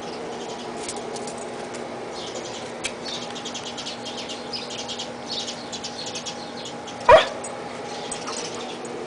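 Six-week-old husky puppies squeaking and whimpering in quick, high little sounds, with one short, loud yelp about seven seconds in.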